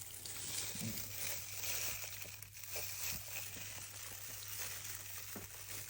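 Food sizzling on a hot metal serving plate: a steady, crackling hiss with a few faint ticks.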